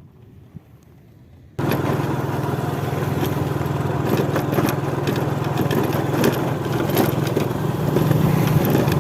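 Motorcycle engine running steadily under way over a rough road, with many scattered clicks and knocks. It starts abruptly about a second and a half in, after a quiet stretch.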